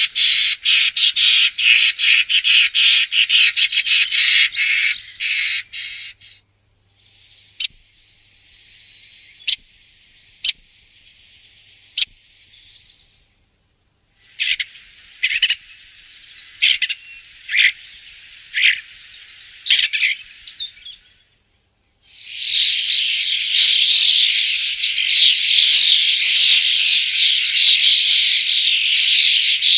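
Common starling singing: rapid, high-pitched chattering mixed with clicks and whistles. It comes in spells, with a quieter stretch of sharp clicks in the middle and a long, loud, continuous outpouring over the last third.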